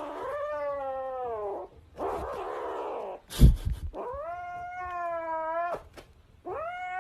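A cat yowling in four long, drawn-out calls, the first falling in pitch and the second rougher. A sharp thump about halfway through is the loudest sound.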